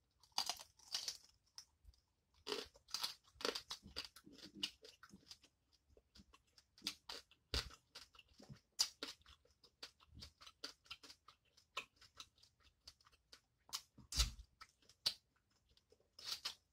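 Close-miked eating sounds of a person eating blue crab meat picked by hand: scattered chewing, lip smacks and small crunches. The sounds are faint and irregular, with a couple of louder clicks about halfway and near the end.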